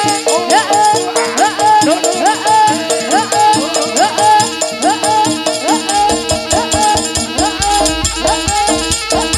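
Amplified Javanese jaranan gamelan music: a repeating melody of short upward-gliding notes about twice a second over steady held tones and percussion, with deep bass coming in about six seconds in.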